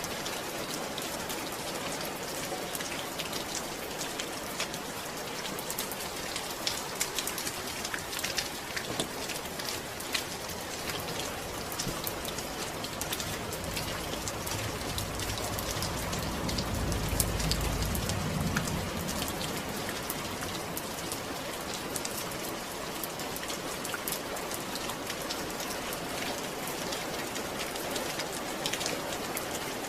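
Steady rain falling, with the patter of many individual drops. A low rumble swells and fades about halfway through.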